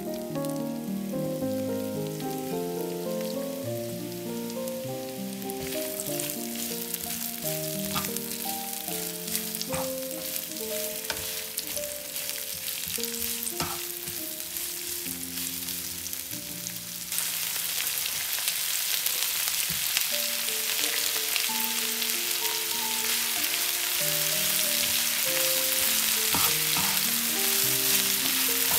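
Sliced onions sizzling in hot oil in a nonstick frying pan, stirred with a plastic spatula that scrapes and taps the pan now and then. The sizzle gets louder a little past halfway, as sliced bell peppers go into the pan.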